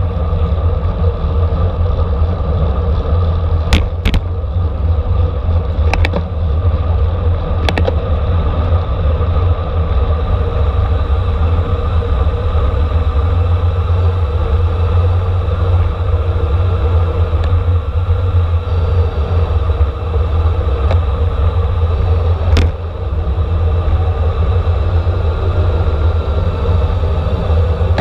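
Steady, loud wind rushing over the microphone of a camera mounted on a racing bicycle at speed, with road and tyre rumble. A few sharp clicks stand out, about four, six and eight seconds in and again near the end.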